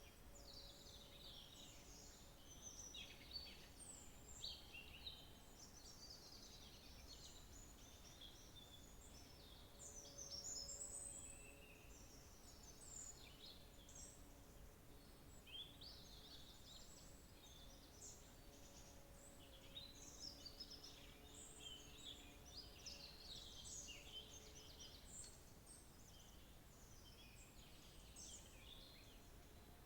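A faint chorus of several songbirds, their chirps and trills overlapping without a break.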